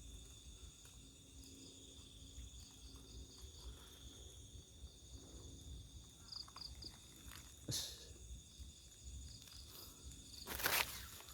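Night insects, crickets among them: a steady high trill with rows of quick, evenly spaced chirps on top. A single sharp click about three-quarters of the way through, and a brief rustle near the end.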